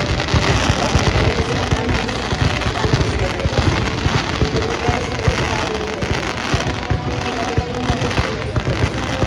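Fireworks going off in a dense, rapid barrage of bangs and crackles with no let-up.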